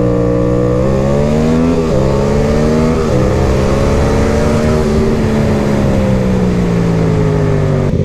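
Yamaha MT-07 parallel twin with an SC Project exhaust accelerating hard in a drag race alongside an Aprilia SXV 450 supermoto. The revs climb, drop sharply at two upshifts about two and three seconds in, climb again, then sink slowly as the throttle eases off. Wind rush runs underneath.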